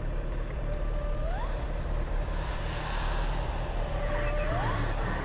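Steady vehicle engine noise. A thin held tone rises quickly in pitch about a second in, and again near the end.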